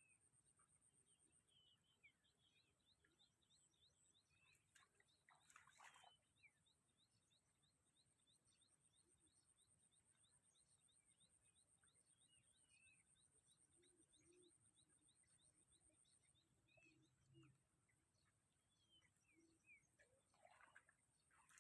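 Near silence, with faint birds chirping in quick repeated runs and two brief faint swishes.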